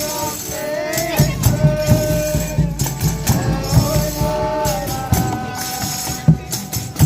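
Folia de Reis music: long sung notes held over shaken tambourine jingles and a steady low drum beat.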